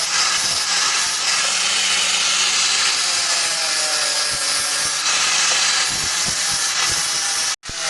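Power tool grinding or sanding, a steady hissing rasp with a wavering motor pitch under it; it cuts off abruptly for an instant near the end.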